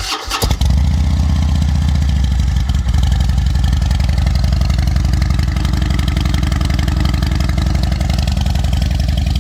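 Motorcycle engine starting: a brief crank as it catches, then running at a steady idle, heard from the exhaust-pipe side.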